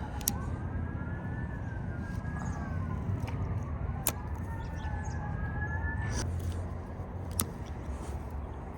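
Emergency-vehicle siren wailing, its pitch sweeping slowly up and down with two wails overlapping, until it stops about six seconds in. Underneath is a steady low rumble of road traffic, with three sharp clicks.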